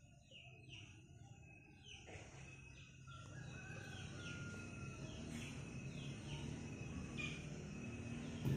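Faint bird calls: a run of short falling chirps and one longer held call, getting a little louder about three seconds in.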